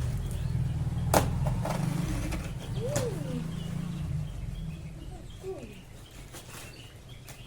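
A vehicle's low engine rumble, loud and then fading away about four seconds in, with birds chirping faintly. A sharp click sounds about a second in.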